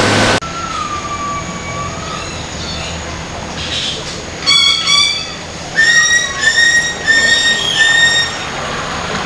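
Birds calling in mangroves: a long, slightly falling whistle, then a run of about five short, clear, repeated notes in the second half.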